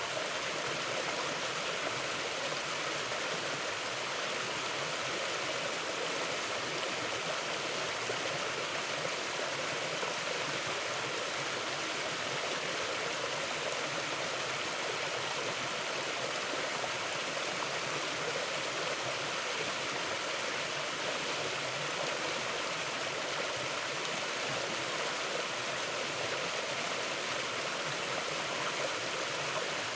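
Forest stream flowing over rocks: a steady, even rush of water with no change in level.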